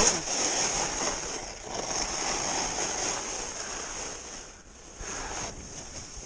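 Snowboard sliding over snow with wind rushing on the microphone, a steady hiss that dips about four and a half seconds in and picks up again.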